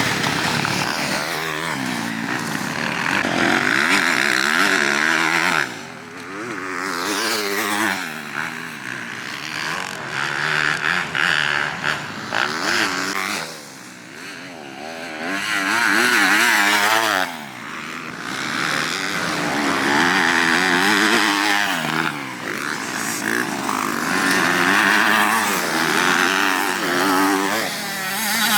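Motocross dirt bike engine revving hard and rising and falling in pitch as the rider works the throttle and gears. The sound drops away sharply a few times where the throttle is shut off.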